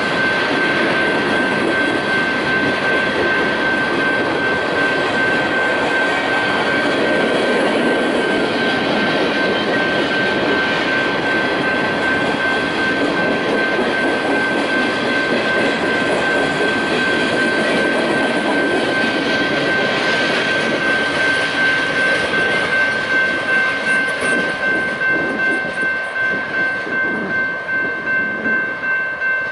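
A maintenance-of-way rail train rolling past: a steady rumble of engine and wheels with a high, steady whine. In the last few seconds the sound pulses about twice a second, like wheels clicking over rail joints.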